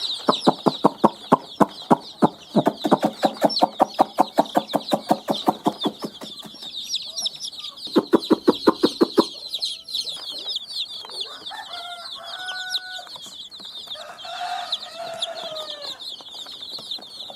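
A brood of chicks peeping continuously, with a hen clucking in fast runs of about five clucks a second through the first six seconds and again briefly around eight seconds in.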